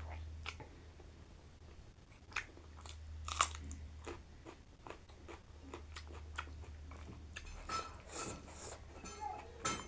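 Close-miked mouth sounds of eating: chewing and biting, with irregular crunching clicks.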